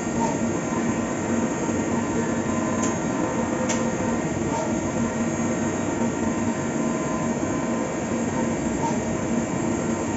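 Fagima Jazz M 5-axis CNC milling machine running a cut: a steady machine noise with a held hum, and two faint ticks about three and four seconds in.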